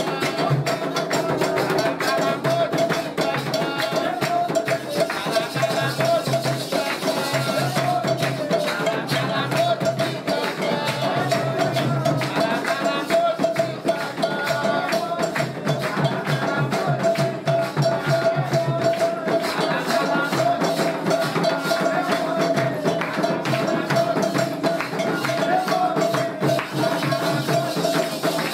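Candomblé ceremonial music: rattles and hand percussion played in a fast, steady rhythm.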